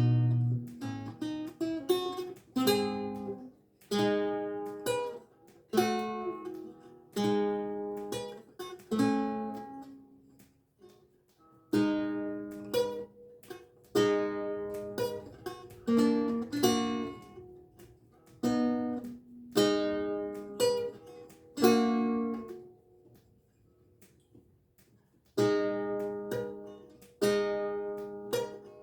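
Renaissance lute with gut strings played solo: plucked chords and short phrases, each note ringing and dying away. The playing pauses briefly about a third of the way in and again about four-fifths of the way through.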